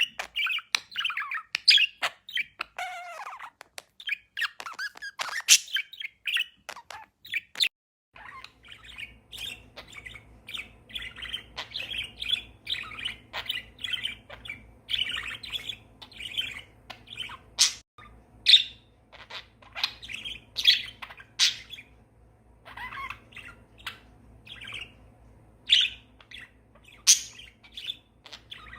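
Budgerigar chattering, with quick, irregular high chirps and warbles throughout. A faint steady hum runs underneath from about eight seconds in.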